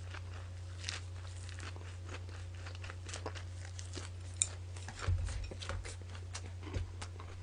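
Close-miked chewing of a leaf-wrapped mouthful of raw rockfish: soft crunching and wet mouth clicks over a steady low electrical hum. A sharp click comes about four seconds in, then a few low knocks around five seconds in as chopsticks go to the sauce dish.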